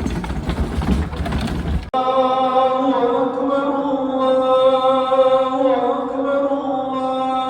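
A low noisy rumble for about two seconds, cut off abruptly, then a chorus of voices chanting in long, held notes.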